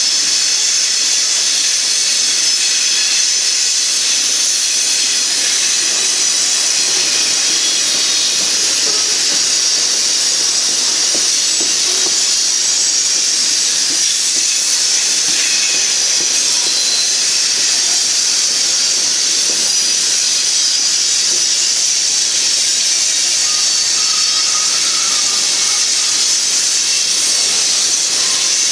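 Freight cars of a manifest train rolling past at steady speed: a loud, even hiss of steel wheels running on the rails.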